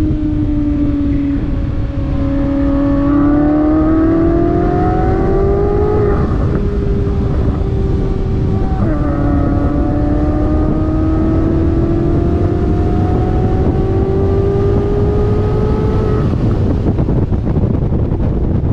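Chevrolet C8 Corvette Z06's 5.5-litre flat-plane-crank V8 at speed on a racetrack, under heavy wind rush on the car-mounted microphone. The engine note climbs as it pulls through a gear, holds, drops sharply at an upshift about nine seconds in, climbs again, then eases near the end.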